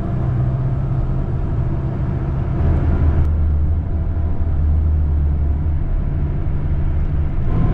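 Tour coach's engine and road noise heard from inside the bus: a steady low drone whose pitch drops about two and a half seconds in.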